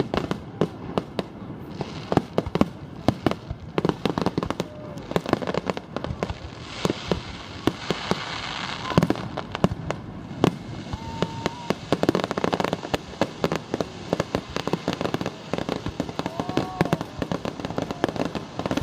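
Fireworks display: a rapid, continuous string of shell bursts going off, with a thick stretch of crackling about halfway through.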